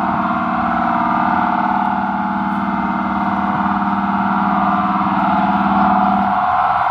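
Several emergency-vehicle sirens sounding at once, loud and wavering, over a steady low tone that drops out near the end.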